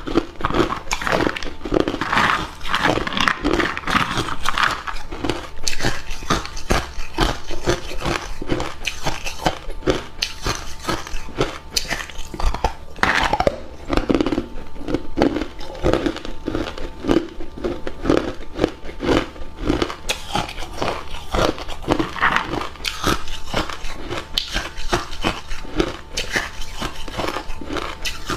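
A person biting and chewing hard cube ice close to the microphone: a continuous run of sharp, irregular crunches as the cubes crack and are ground between the teeth.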